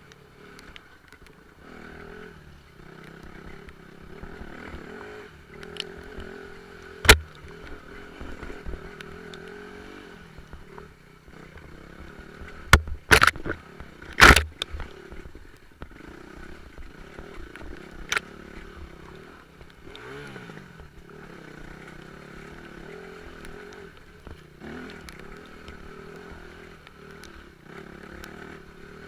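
Off-road motorcycle engine running at fairly steady revs, with several sharp knocks and clatters standing out above it about seven, thirteen and fourteen seconds in.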